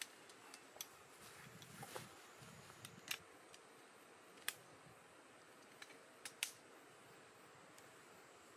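Near silence with a few faint, sharp clicks and taps: one about three seconds in, one halfway through, and a quick pair a little later.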